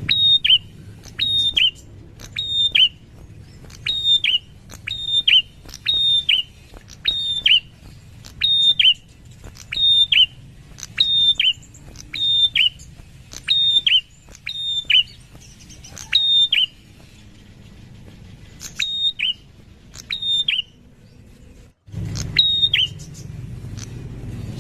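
A prinia (prenjak) calling over and over: a sharp, high two-note call, each note dropping slightly in pitch, repeated about once a second, with a couple of pauses of a few seconds near the end.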